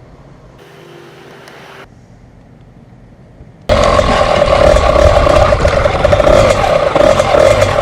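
A motor vehicle's engine running at a steady pitch under a loud rush of wind noise, starting abruptly about four seconds in after a quiet stretch.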